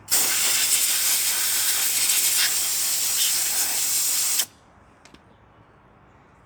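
Loud, steady hiss of a pressurised spray on lawnmower engine parts, lasting about four and a half seconds and cutting off suddenly.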